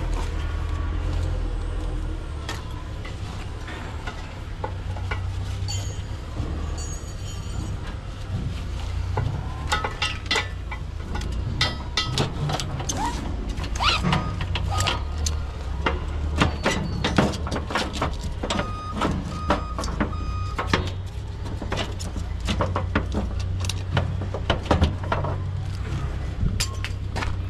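Scrap metal being unloaded, pieces clanking and banging irregularly, over the steady low rumble of a running engine. A few short beeps sound about seven seconds in.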